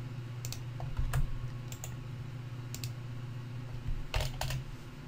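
Computer keyboard keys being typed in short, irregular clicks a few at a time, over a steady low hum.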